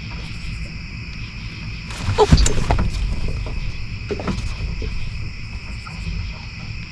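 Steady, high-pitched chorus of night insects over a low rumble. About two seconds in, a loud, rough sound falling in pitch cuts through it, with a weaker one a couple of seconds later.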